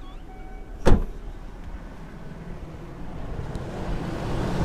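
Car engine idling after a cold start with no hydraulic lifter tapping or valve clatter, which the owner credits to an SMT2 metal conditioner additive. About a second in there is a single sharp knock, and the sound grows louder near the end.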